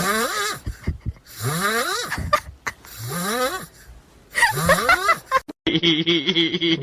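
An animal's voice: four breathy, pitched calls about a second and a half apart, each rising and then falling in pitch.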